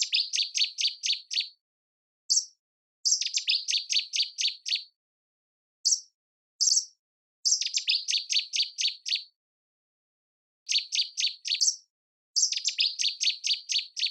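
A songbird, presented as a nightingale, singing the same short phrase over and over: a high opening note followed by a quick run of about eight sharp notes, about six a second. Single high notes fall between some of the phrases.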